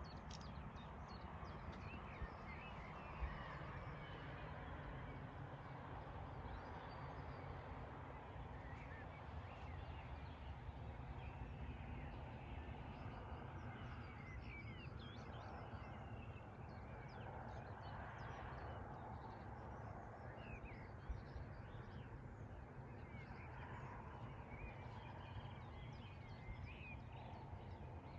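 Faint outdoor evening ambience: small birds chirping over a steady low rumble, with a couple of brief knocks.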